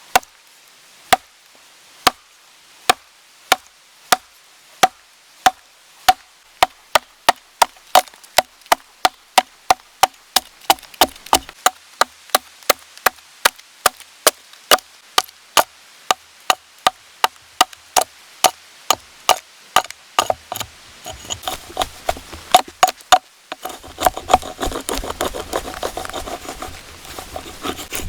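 Sharp knocks of a tool striking wood, at first about one a second and quickening to about three a second, each with a short ring. Near the end the knocks give way to a denser scraping and rustling.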